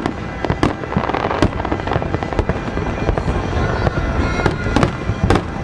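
Aerial firework shells bursting in quick succession: sharp bangs about every half second to a second over a continuous low rumble from the display.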